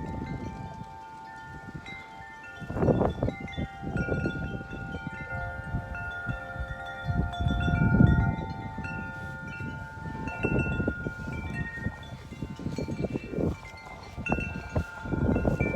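Wind chimes ringing constantly in strong gusty wind, many tones struck over and over and overlapping. Gusts rumble on the microphone, strongest about three seconds in, around the middle, and near the end.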